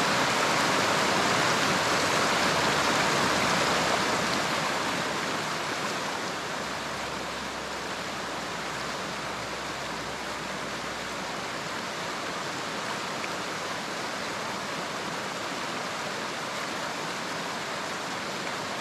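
Fast river rapids rushing steadily as white water. The rush gets somewhat quieter about five seconds in, then holds steady.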